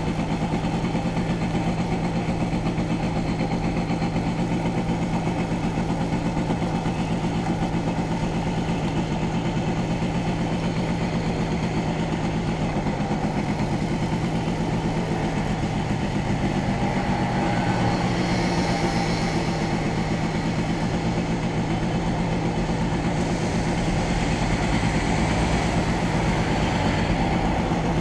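Motorcycle engine idling steadily while stopped, with a car passing close by near the end.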